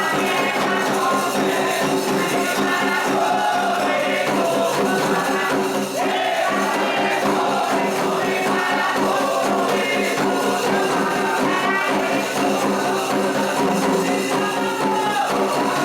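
Candomblé ritual song: a group of voices singing together, with percussion accompaniment.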